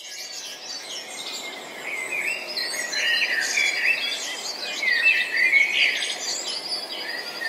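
Several songbirds chirping and singing, with many short calls and trills overlapping over a soft steady hiss, growing louder over the first few seconds.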